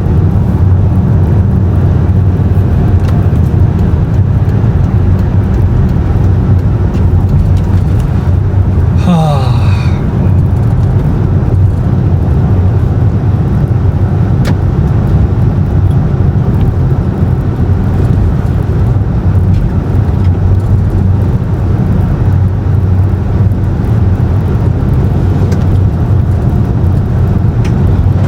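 Car driving along a snowy road: a steady low rumble of engine and tyres, with a brief sweep falling in pitch about nine seconds in.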